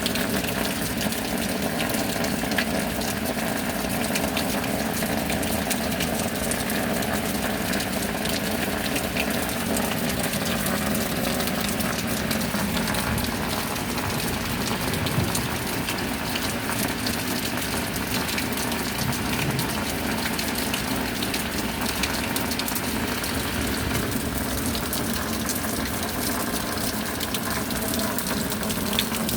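Steady rain falling, a dense even patter of drops with no let-up, over a faint steady hum.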